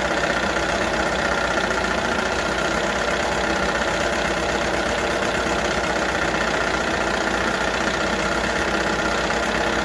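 1978 Johnson 6 hp twin-cylinder two-stroke outboard idling steadily, with a little vibration and shaking that the owner reckons is as good as it will get.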